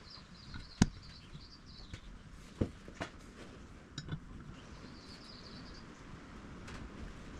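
Small birds chirping in short high trills, with a few sharp knocks; the loudest knock comes just under a second in.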